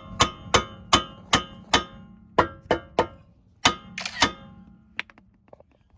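A mallet hammer striking at a seized outer tie rod end to knock its stud loose from the steering knuckle: about ten sharp, ringing metallic clangs in quick groups of two or three a second, then a few light taps near the end.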